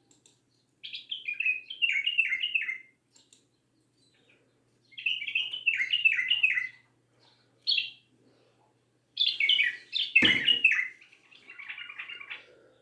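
A caged songbird singing short phrases of quick descending notes, several phrases with pauses between them. A single sharp knock sounds about ten seconds in.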